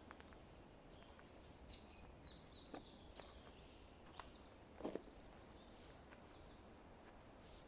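A small songbird sings a fast trill of repeated falling high notes, about five a second, for roughly two seconds. Faint steady forest background with a few sharp clicks; the loudest comes about five seconds in.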